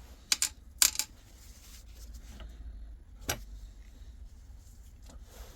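Small steel gearbox parts clinking against each other and against metal as they are handled: four sharp clicks in the first second and one more at about three seconds.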